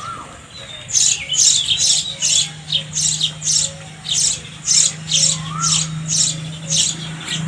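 House sparrows chirping: a quick series of short, high chirps, about two or three a second, starting about a second in. A low steady hum runs underneath from about two seconds in.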